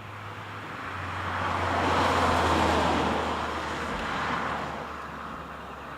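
Car driving past, its engine and road noise swelling to a peak about two and a half seconds in and then fading.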